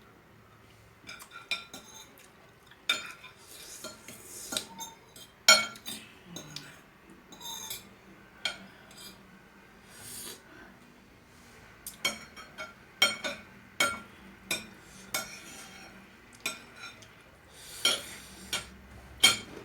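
Eating utensils clinking and scraping against a plate of noodles, in irregular sharp strikes, a few much louder than the rest.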